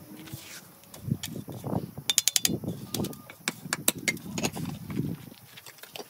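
Irregular knocks and sharp clicks, with a quick rattling run of clicks about two seconds in, as of hard objects being handled and tapped.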